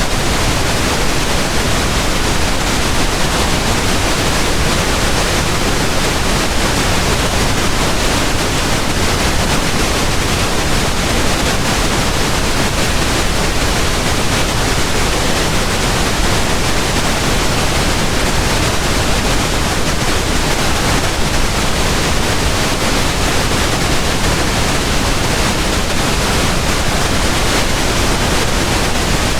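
Steady pink noise: an even, unchanging hiss spread across all pitches, with no rhythm or breaks.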